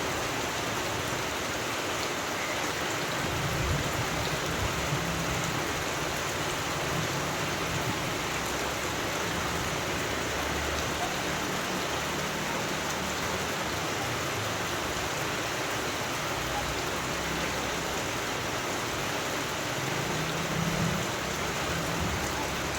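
Steady rain falling, an even hiss with no pause, with low rumbles coming and going underneath.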